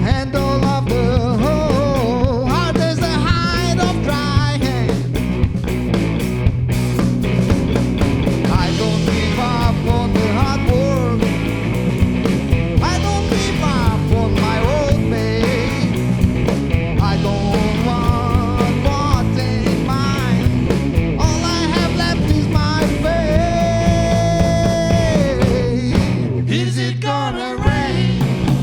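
Live rock band playing an instrumental break: a lead line of sliding, bending notes over bass and drums, with one long held note near the end.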